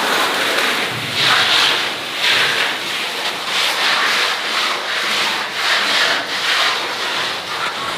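Rhythmic scraping or rubbing strokes, about one a second.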